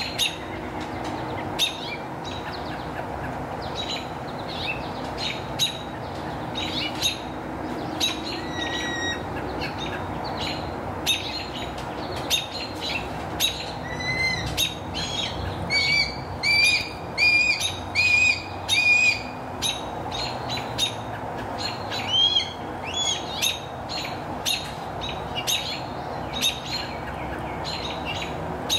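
Birds chirping in many short, high calls, with a run of about five louder arched chirps in quick succession around the middle. A steady low background hum lies underneath.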